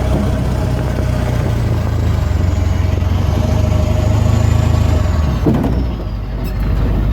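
Car engine running steadily as the car drives, heard with a low, even hum. About five and a half seconds in there is a short knock, and the low engine hum then drops away.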